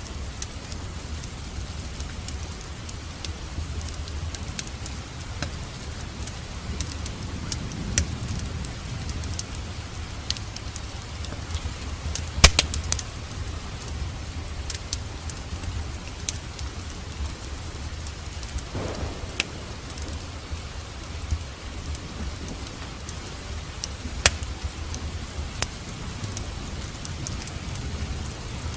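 Steady rain with a wood fire crackling, scattered sharp pops over the rain, the loudest about halfway through, with a low rumble underneath.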